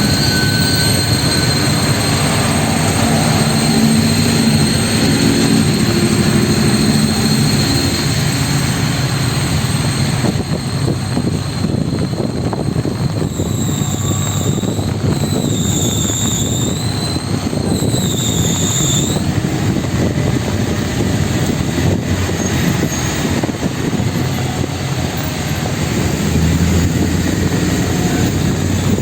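Steady city-street noise of traffic passing on a wet avenue. A high tone wavers up and down about four times in the middle.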